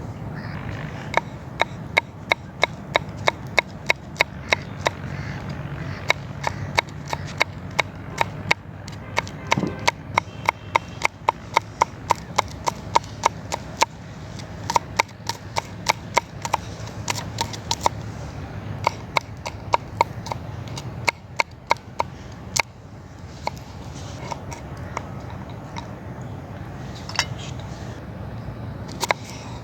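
Knife chopping on a wooden cutting board: sharp regular knocks at about three to four strokes a second, turning sparser and uneven in the second half.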